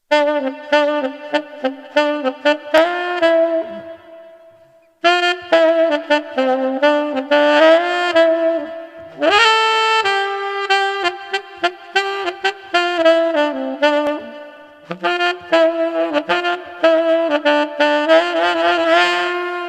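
Taan-brand China-made tenor saxophone playing a melody in phrases, with a short pause about four seconds in.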